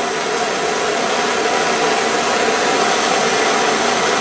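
Handheld gas torch burning steadily with a loud, even rushing hiss, growing slightly louder, as it heats a forged steel drive hook for a baked-on oil finish.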